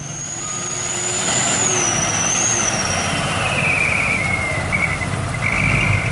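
Heavy truck running slowly with a high wavering squeal for about three seconds, then a lower squeal that falls in pitch and a few short squeals near the end, over a low engine rumble.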